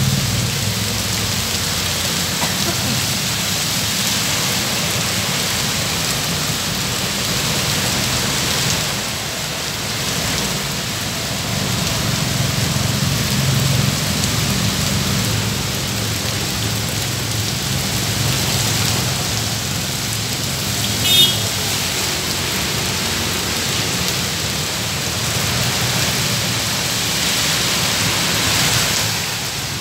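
Heavy rain falling steadily on a wet road and pavement, an even hiss over a low rumble of traffic on the wet road. A brief high-pitched chirp sounds about two-thirds of the way through.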